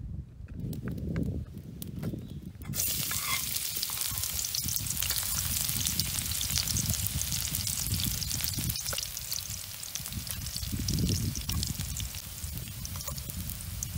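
Chopped aromatics dropped into hot oil in a steel wok, starting to sizzle suddenly about three seconds in and frying steadily as they are stirred, with a low rumble underneath.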